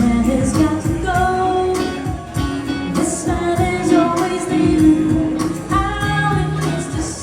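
Live music: a woman singing a melody with long held notes over a band with a steady beat.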